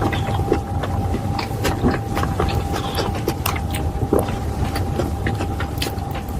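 Close-miked chewing and crunching of food: many short crisp crackles and clicks, over a steady low background hum with a faint constant tone.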